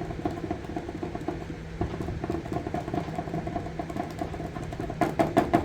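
A new paint marker being shaken hard, its mixing ball rattling quickly and steadily to get the paint flowing, over a steady low hum. Near the end come a few louder clicks, typical of the pen's tip being pumped to prime it.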